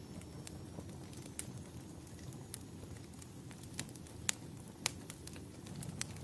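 Wood fire crackling in a fireplace: scattered sharp pops and snaps over a steady low rumble, with two louder pops a little after halfway.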